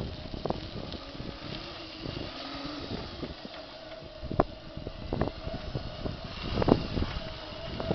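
Home-converted electric tractor driving: a faint, steady electric motor whine, with scattered knocks and crackles as it rolls over leaves.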